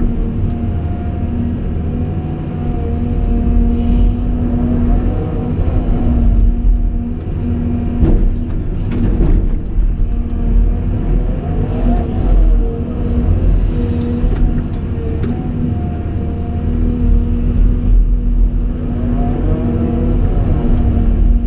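Caterpillar 349E excavator's diesel engine running with a heavy low rumble and a steady whine whose pitch wavers briefly a few times, with a few sharp knocks about eight to nine seconds in.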